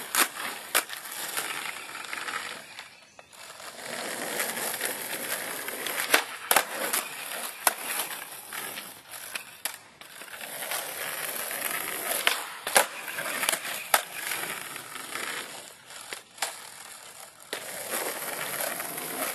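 Skateboard wheels rolling on a concrete driveway. About ten sharp clacks break the rolling, some in quick pairs, from the tail popping and the board landing during flatground trick attempts. The rolling stops briefly a few times.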